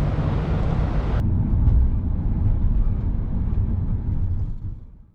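Steady low rumble of a moving vehicle. The sound changes abruptly at a cut about a second in, then fades out near the end.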